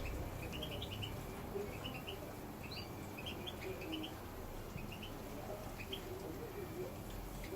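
Small aviary finches chirping and twittering in many short, high calls, over steady low background noise.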